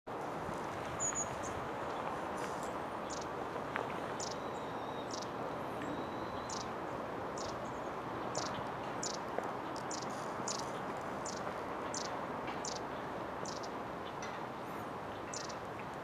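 Long-tailed tit giving short, very high, thin call notes, repeated irregularly about once a second, over a steady low rush of background noise.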